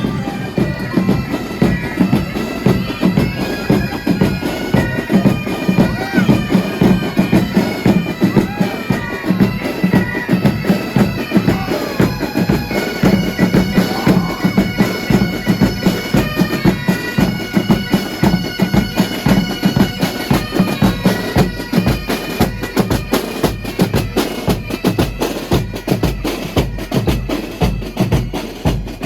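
Bagpipes playing a stepwise melody over a steady drone, with bass and snare drums beating a fast, regular rhythm, as from a pipe band. The drum strokes stand out more near the end.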